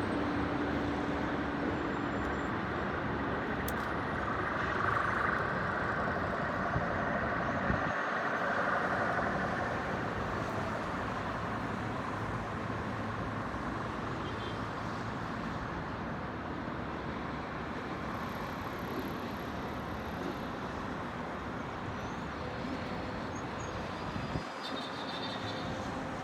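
Steady city traffic noise: a continuous wash of vehicles on the roads, swelling a little a few seconds in.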